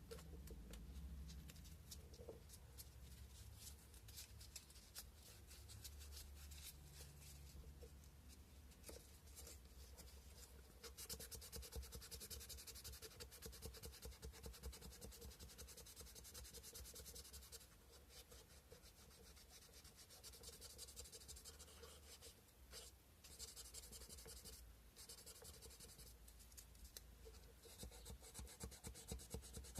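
Sandpaper worked by hand over a carved cow-bone fish hook: faint, quick rasping strokes that get busier and louder for several seconds in the middle and again near the end.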